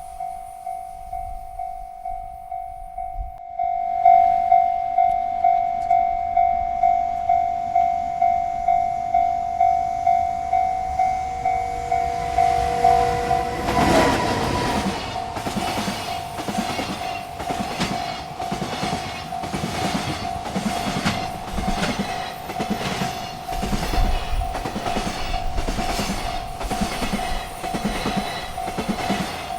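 Railroad crossing bell ringing about twice a second, getting much louder about four seconds in. About halfway through, a freight train reaches the crossing and its wheels clatter rhythmically over the rail joints while the bell keeps ringing.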